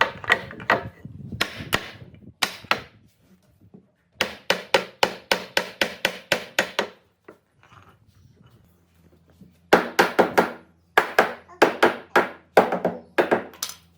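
Quick hammer blows on wood, about four a second, in bursts of a few seconds with short pauses between them.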